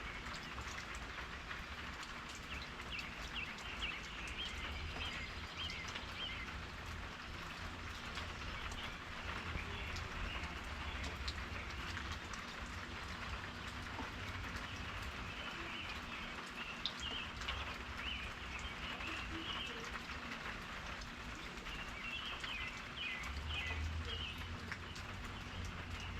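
Steady rain falling, with many scattered drop ticks. Short chirping calls come and go over it, and a low rumble swells near the end.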